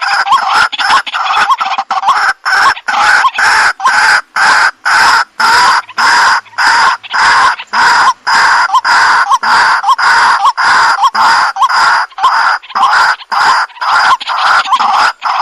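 Waterhen (jal murgi) calling: a loud, unbroken run of short repeated notes, about three a second.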